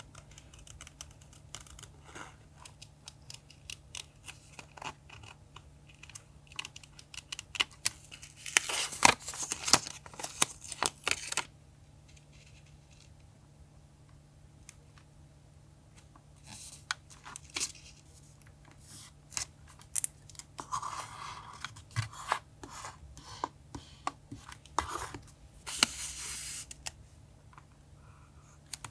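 Paper being handled for a collage: scattered light taps and crinkles, with longer stretches of rustling and tearing about a third of the way in and again near the end.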